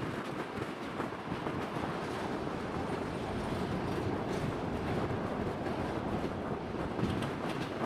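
Express passenger train running along the track, heard from aboard: a steady rumble of wheels on rails with a few faint clicks.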